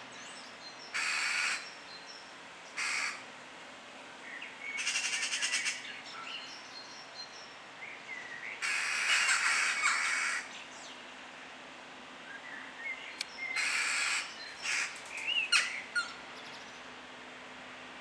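Birds calling: about six harsh, raspy calls spaced a few seconds apart, one of them a rattling run of quick notes, with a few thin chirps between them over a faint steady low hum.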